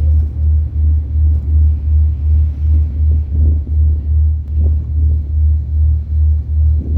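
Ferry engine running under way, a deep, steady low rumble that pulses evenly about three times a second.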